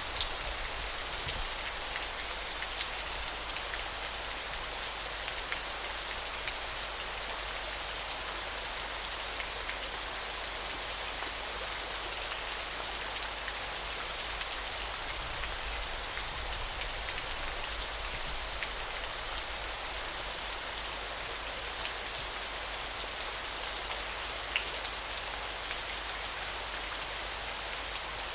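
Steady rushing of river water, an even hiss with a few faint drips and clicks. About halfway through, a high, thin buzzing swells for several seconds, then fades back to a faint thread.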